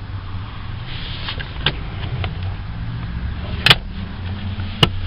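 A vehicle engine idling with a steady low hum, with a few sharp clicks and knocks over it, the loudest a little past the middle and another near the end.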